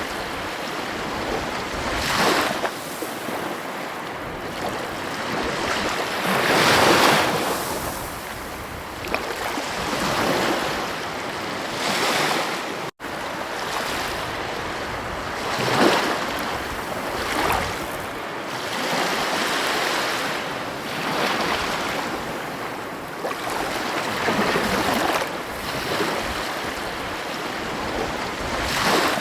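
Ocean waves breaking and washing ashore, a steady rush that swells and ebbs every few seconds, with a momentary gap in the sound about halfway through.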